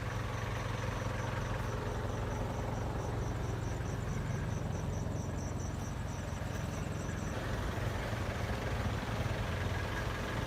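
A steady low engine hum, like a vehicle idling. Over it, an insect chirps in fast, even pulses that stop about seven seconds in.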